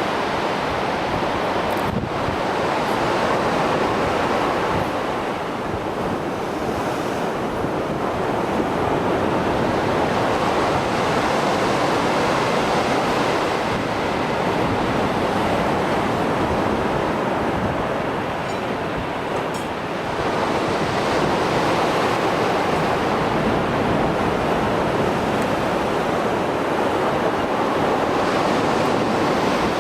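Mediterranean Sea waves surging and breaking on the shore, rough after a storm: a continuous wash of surf that swells and eases slightly, with no pause.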